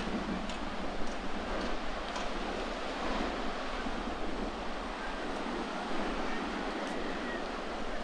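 Sea waves washing steadily on the shore, with wind gusting across the microphone and a few faint ticks.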